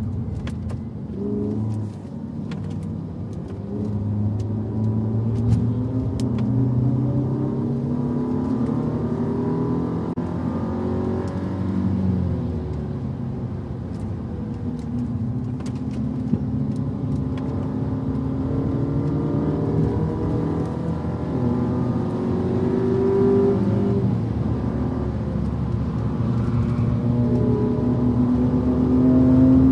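Car engine running hard at speed, its pitch climbing under acceleration and then dropping at gear changes and braking, over a steady bed of road and wind noise.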